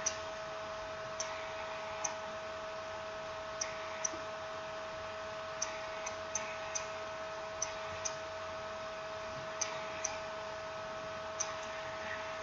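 Light, sharp clicks, about one or two a second and unevenly spaced, over a steady electrical whine.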